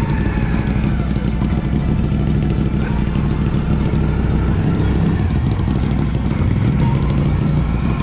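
Off-road vehicle engine running steadily under load, with no big revs or stops.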